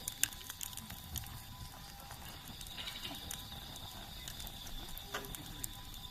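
Wood campfire crackling: irregular sharp pops and snaps from the burning wood, the loudest about a quarter second in.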